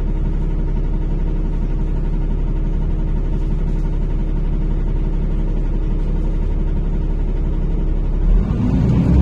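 NefAZ-5299 city bus engine running steadily, heard inside the cabin. Near the end it revs up and grows louder as the pitch rises, as when the bus pulls away.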